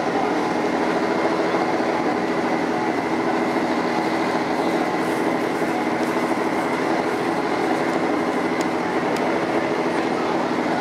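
Turbocharged EK Honda Civic hatchback's engine running at a steady, even idle as the car rolls slowly up to the drag-strip staging line.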